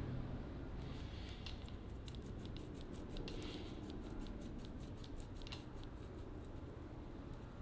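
Faint, irregular small clicks and crackles of hand work as the old cleaver's handle is taken apart.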